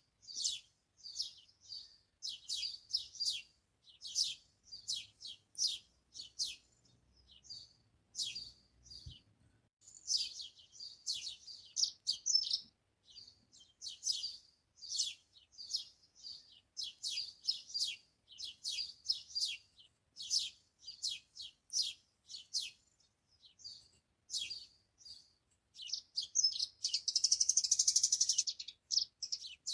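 Songbirds chirping and twittering in quick, high-pitched bursts one after another, with a denser buzzing trill near the end.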